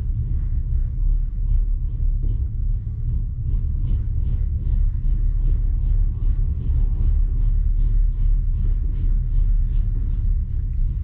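Passenger train rolling along, heard from inside the coach: a steady low rumble of wheels on rails with a faint, fast, even ticking over it.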